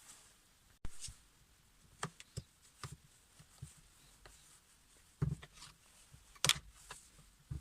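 Irregular light clicks and knocks of tools and parts being handled on a workbench, with two louder knocks about five and six and a half seconds in.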